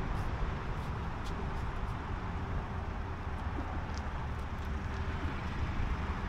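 Car engine running at low revs as a car towing a caravan creeps through a tight manoeuvre, over a steady low background rumble.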